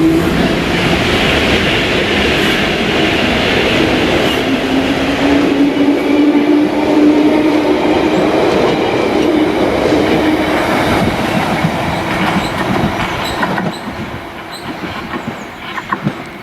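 A train running past on the rails, with wheel clatter and a steady tone that slowly rises in pitch. It fades away about three-quarters of the way through, leaving a few clicks near the end.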